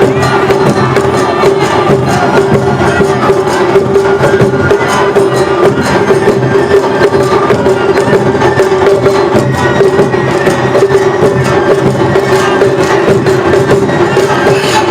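Awa-odori festival music played live by a troupe's band: dense, fast percussion strikes over a steady held melodic tone.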